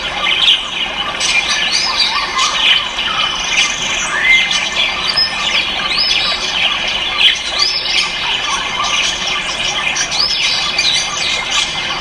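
Many caged ornamental birds calling at once: a dense chorus of overlapping high calls, with arched up-and-down notes repeating every second or so.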